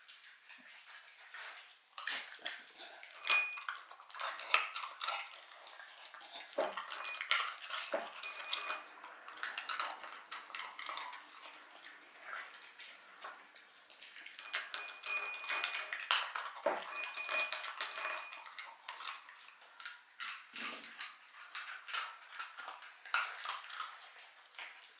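A Shiba Inu eating dog treats: a run of clattering knocks and bright, briefly ringing clinks as it works at its food. The clatter comes in two busy stretches, one starting a couple of seconds in and one in the middle, with quieter patches between.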